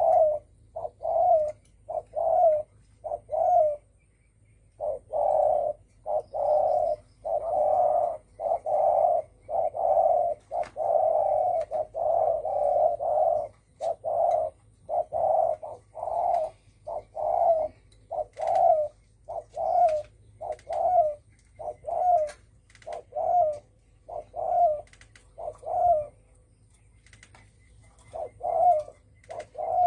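Spotted dove cooing in a long series of repeated coos, about one a second, in the 'thổ sấm' call style used to rouse caged male doves. The coos pause briefly about four seconds in and again near the end.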